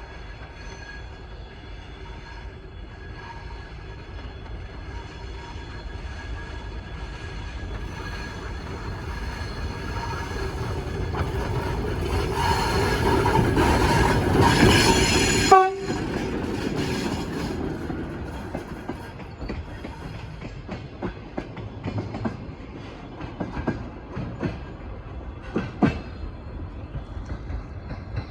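TEM18DM diesel shunting locomotive approaching with a work train, its engine growing steadily louder. A horn blast sounds for a few seconds at the loudest point and cuts off abruptly. After that, wheels click over rail joints as the wagons roll past.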